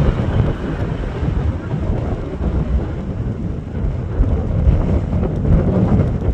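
Wind buffeting the microphone over a steady low rumble, with no clear tones or whine.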